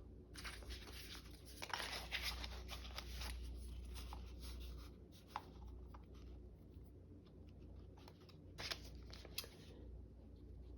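Sheets of paper being handled and shuffled: soft, irregular rustling and sliding, with a few light taps, busiest in the first half.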